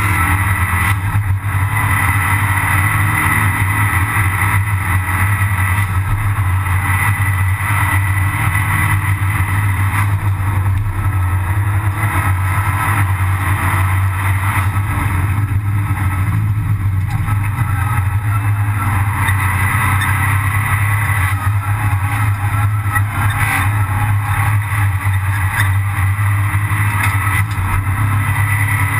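Abarth 500 Assetto Corse race car's turbocharged 1.4-litre four-cylinder engine running hard under racing load, heard loud and steady from inside the stripped cabin.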